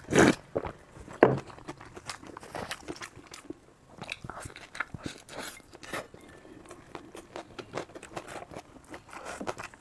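A person eating: two loud bites in the first second and a half, then chewing with many small clicks and crunches.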